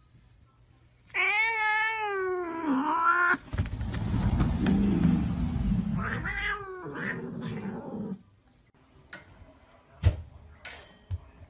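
A cat meowing: one long wavering meow, then a rough, noisy stretch, then a second, shorter meow, followed by a few faint knocks.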